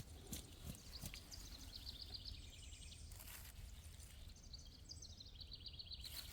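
Faint outdoor ambience with a small songbird singing two rapid trills of short high chirps, each stepping down slightly in pitch, one starting a little over a second in and one in the second half.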